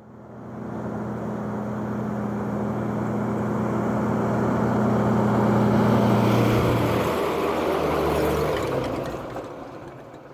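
A motor running steadily with a low, even hum; its pitch drops about seven seconds in and it fades away near the end.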